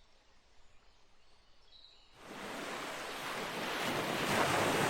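Near silence for about two seconds, then the noise of a sea wave breaking and washing up a beach starts abruptly and swells toward the end.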